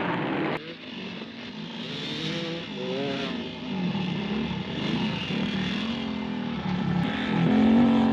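Motorcycle engines revving up and down, the pitch rising and falling repeatedly. The sound drops abruptly just over half a second in, then builds to its loudest near the end.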